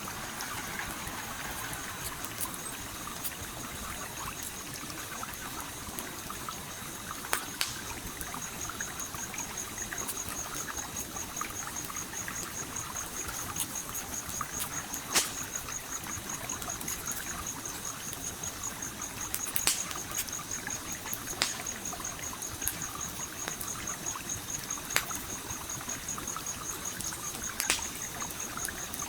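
Stream water trickling and flowing steadily, with sharp crackles and pops from a campfire every few seconds. From about eight seconds in, a high, rapidly pulsing trill runs on steadily.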